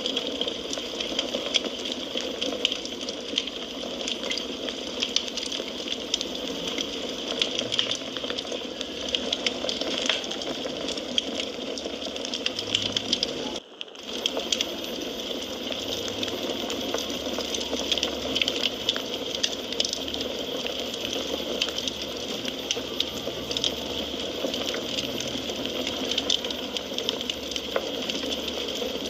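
Wood fire crackling: a steady hiss with many small irregular pops and snaps. The sound drops out for a moment about halfway through, then carries on as before.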